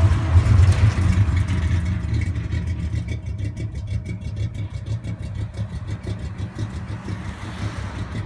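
1960 Chevrolet C-10 pickup truck's engine running, loudest for the first two seconds and then dropping back to a lower, steady, even pulsing run.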